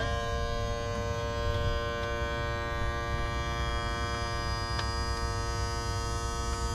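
Suzuki DF200 four-stroke outboard motor running steadily just after starting, a high, even whine over a low rumble.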